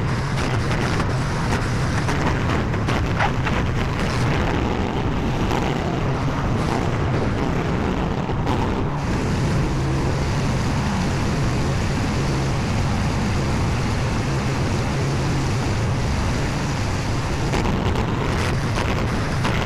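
Skid steer engine running steadily under work, a constant low drone, with a few light knocks and clatters in the first half.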